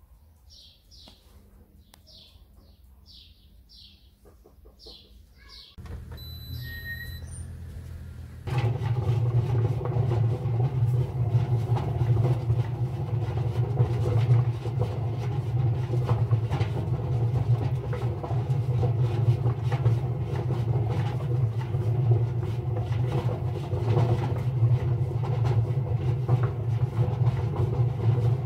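Indesit washing machine running loaded with heavy bricks: a steady low drone with constant knocking and rattling from the bricks in the drum. It starts about eight and a half seconds in, after a low hum and, before that, birds chirping.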